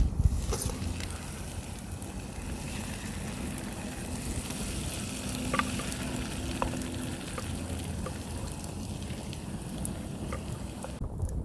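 Food sizzling in a pan, a steady hiss with a few light clicks from utensils.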